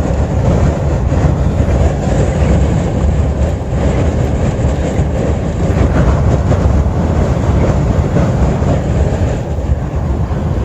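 Sandstorm wind buffeting the vehicle and the microphone: a loud, steady, low rumble with a rushing hiss over it.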